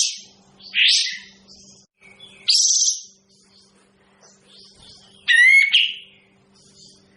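A kapas tembak bird calling: four loud calls of about half a second each, a second or more apart, the first three rough and the last clearer and more whistled. A faint steady hum runs underneath.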